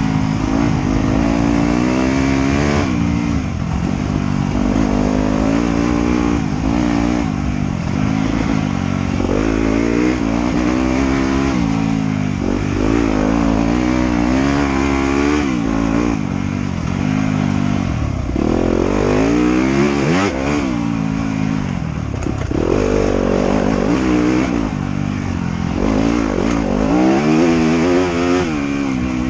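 Trail motorcycle engine being ridden hard, its pitch climbing and dropping again and again as the throttle is worked.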